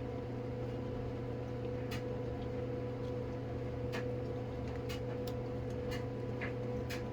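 Steady electrical-sounding hum with a constant tone, with a handful of light clicks and taps from plastic tarantula containers being handled.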